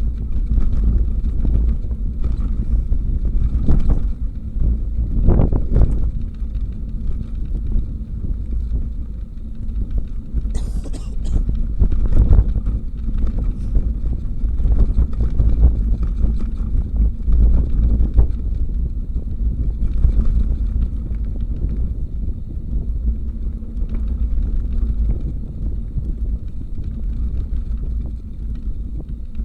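Wind rushing over the microphone while riding a bicycle, a loud steady low rumble with scattered small knocks and rattles from the bike over the road surface. A short high hiss about ten seconds in.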